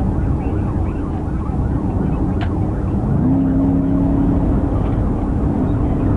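Police cruiser driving: engine and road noise heard inside the car, with a steady engine tone coming in about three seconds in.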